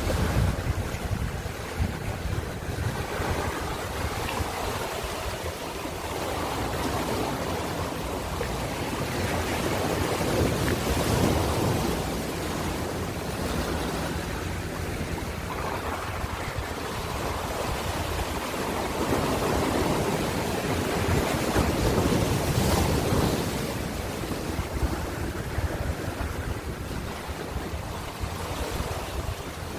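Ocean surf: waves breaking and washing in, a steady rushing that swells and eases every few seconds, with some wind buffeting the microphone.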